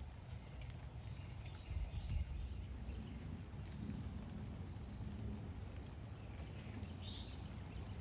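Backyard birds giving scattered short, high chirps over a steady low rumble.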